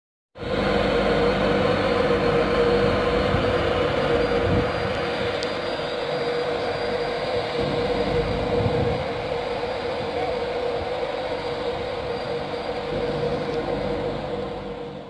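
Express passenger train pulling out of the station and moving away: a steady drone with a held humming tone, easing off slightly in the second half.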